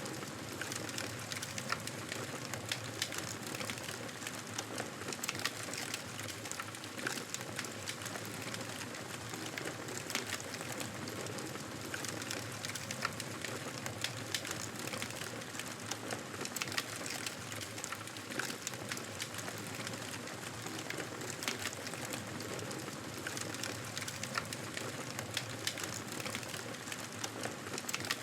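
Wood fire burning in a fireplace: a steady hiss of flames with frequent, irregular sharp crackles and pops.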